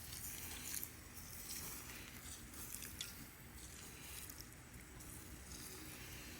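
Wooden hand-drill spindle grinding into a fireboard, a dry scraping and crunching that comes in uneven surges as the spindle is twirled, with a few sharp clicks.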